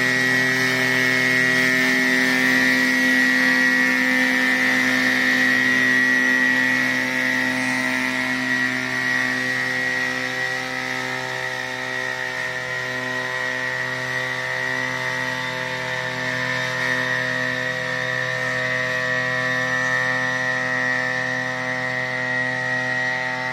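Helicopter-type pesticide-spraying drone running steadily, a continuous mechanical drone with a strong high whine over lower humming tones. It eases slightly in level about seven seconds in.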